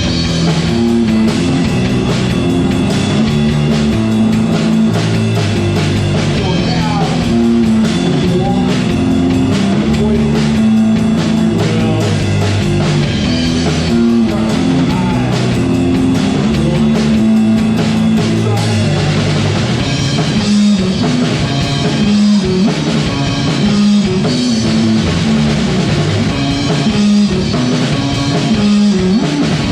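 Indie punk rock band playing a song live, with guitar, bass and drum kit, loud and steady throughout.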